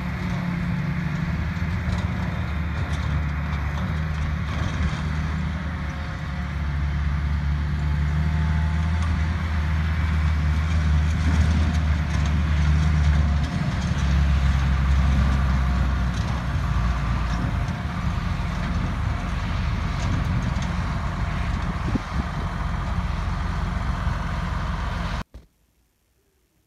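Large diesel engines of silage harvesting machinery, a forage harvester and tractors, running steadily with a mechanical din that shifts in pitch and level now and then. The sound cuts off abruptly near the end.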